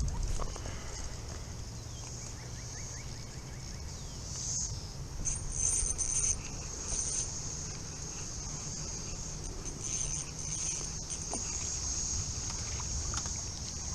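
Cicadas singing in a steady, high-pitched chorus that swells louder for a few seconds around the middle, over a low background rumble.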